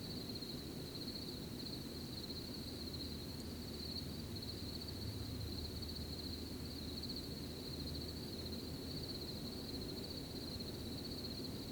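Crickets trilling steadily in one continuous high, fast-pulsing chorus, over a low, even background rumble.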